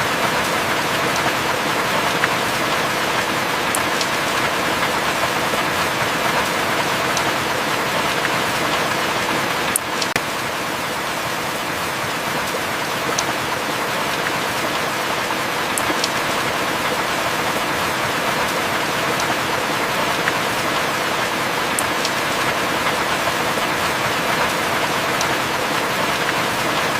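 Heavy rain falling in a steady hiss, with a few sharp drop ticks now and then.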